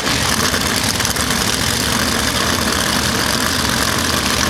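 Heavy diesel truck engine running steadily at idle, under a steady hiss.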